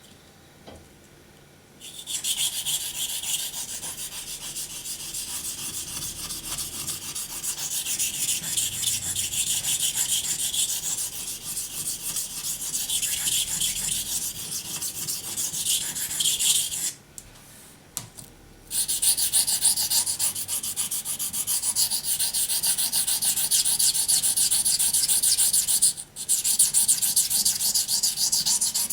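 Knife blade stroked rapidly back and forth on a wet sharpening waterstone, a steady gritty scraping in three long runs with two short pauses, about seventeen and twenty-six seconds in.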